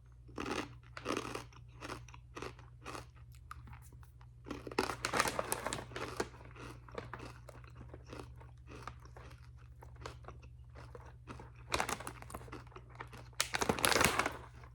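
A person biting and chewing crunchy Jagarico potato-and-carrot snack sticks, with a run of crisp crunches. The crunching is loudest about five seconds in and again near the end.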